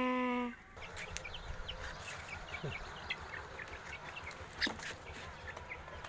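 A steady held tone, the loudest sound, lasts about the first half second; after it, many short high chirps of birds come scattered through, with a single click near the end.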